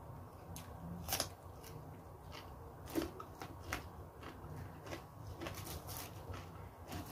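A person chewing food at close range: crisp crunching clicks and crackles every second or so, over a low steady hum.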